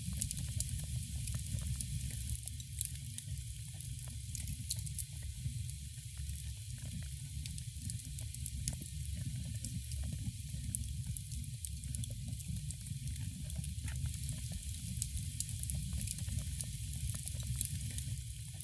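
Wood fire crackling in a fireplace, with many small irregular pops and snaps over a steady hiss and a low rumble.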